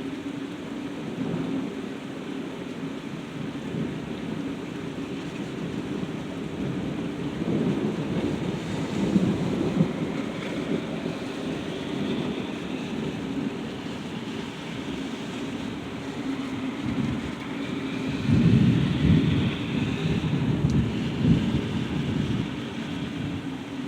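Steady rain falling during a thunderstorm, with rolling thunder rumbling through it. The thunder swells twice, a little after a third of the way in and again near the end.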